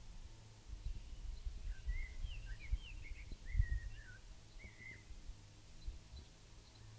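Outdoor ambience: small birds chirping in short, sweeping calls, over an uneven low rumble that is loudest about three and a half seconds in.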